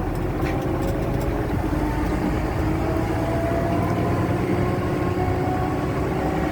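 Semi truck's diesel engine heard from inside the cab, pulling gently at light throttle in a low gear, its pitch climbing slowly as the truck gathers speed.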